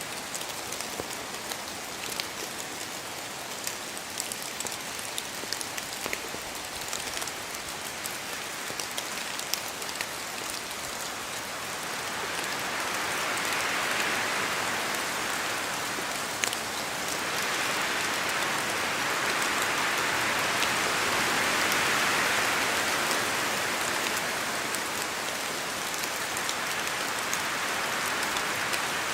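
Steady rain falling in a spruce forest, with separate drops ticking sharply throughout. Wind swells through the trees twice in the middle, the second swell longer, then eases.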